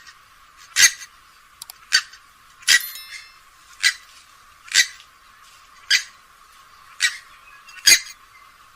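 Grey-headed swamphen giving a series of short, sharp calls, about one a second.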